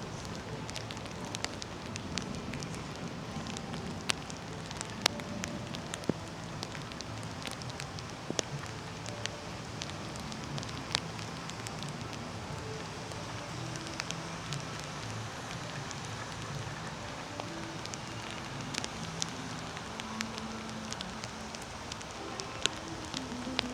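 Steady rain falling, with many sharp, irregular drips and drop impacts.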